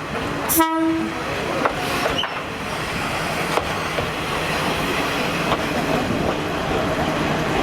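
Diesel train running on the line: steady running noise with scattered clicks of the wheels over the rail, and one short horn-like tone just under a second in.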